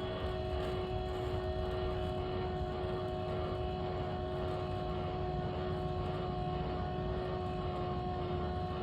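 Electric drive motor of a motorized motorcycle carrier running at a constant speed, with a steady whine at several pitches over a low rumble.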